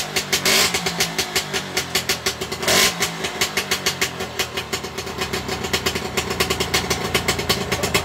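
Iso-Moto 125 cc two-stroke motorcycle engine, poorly silenced despite its twin exhaust, running and revved twice in the first three seconds, then settling to a rapid, uneven idle.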